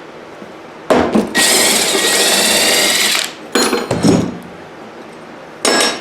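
Cordless power tool, a drill or impact driver, spinning a pulley bolt off a mower deck in a loud high whirr of just under two seconds that starts and stops abruptly. Metal clanks of the socket and pulley parts come before and after.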